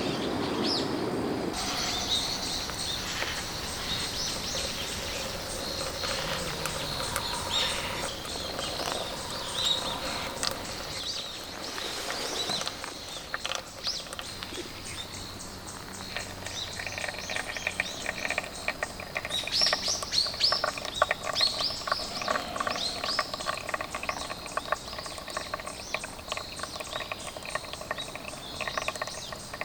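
Wild birds chirping and calling, many short high chirps, growing busier in the second half.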